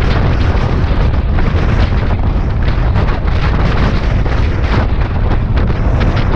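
Heavy wind buffeting over the microphone of a Suzuki Bandit 650S motorcycle riding at highway speed, with the bike's inline-four engine running under the wind noise.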